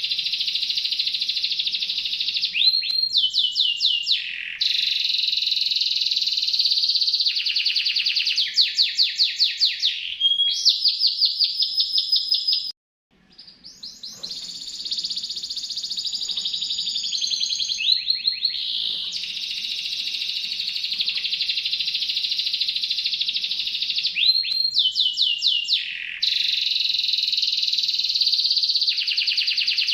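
Domestic canary singing a long, almost unbroken song of fast trills and rolls made of rapidly repeated notes, high-pitched and piercing, which breaks off suddenly for a moment near the middle.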